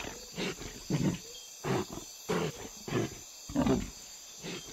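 Bison grunting over and over: short, low, rough grunts, about seven of them, roughly every two-thirds of a second.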